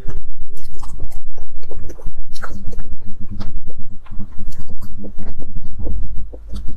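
Close-miked chewing of a spoonful of chocolate mirror-glazed mousse cake: a dense run of short mouth clicks and smacks.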